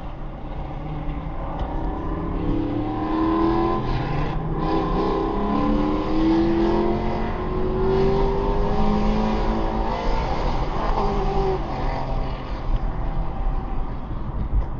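Chevrolet Camaro V8 revving hard and accelerating away, its engine pitch climbing through several pulls with a brief break about four seconds in.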